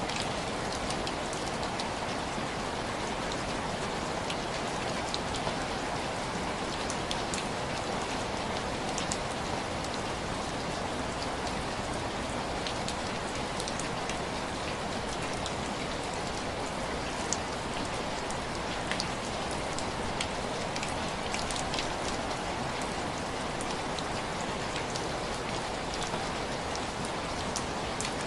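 Steady rain falling, an even hiss with no let-up, with scattered sharp crackles of a wood fire over it.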